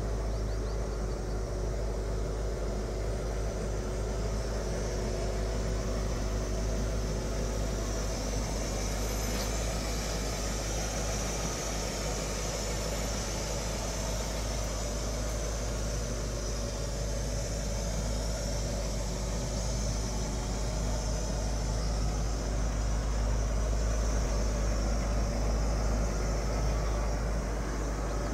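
A Lincoln 460 V8 idling steadily, a low, even engine sound.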